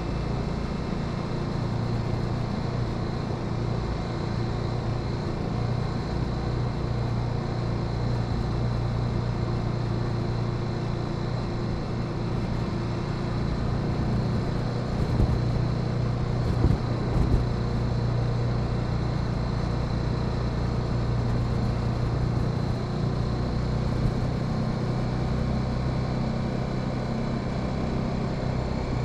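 Honda Sahara 300 motorcycle engine running at a steady speed, with a few short knocks about fifteen to seventeen seconds in.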